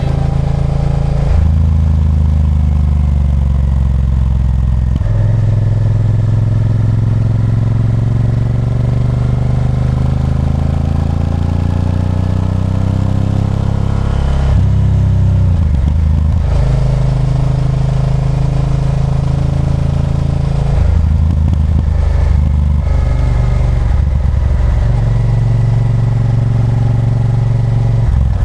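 Honda Varadero 1000's 90-degree V-twin engine heard from the rider's position as the bike is ridden, its note rising and falling several times, with sudden steps in pitch and a long slow swell in the middle.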